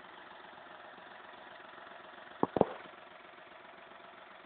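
Volkswagen Polo's engine idling steadily, heard from inside the car, with two brief sounds close together about two and a half seconds in.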